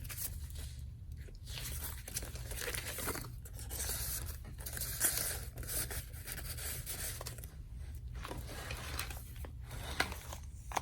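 Paper and card rustling and scraping as the pieces of a handmade paper file folder are handled and slid in and out of their pockets, with a couple of short sharp taps.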